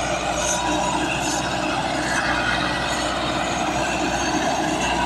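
A heavy vehicle or machine running steadily, with metallic rattling and squealing over a continuous mechanical noise.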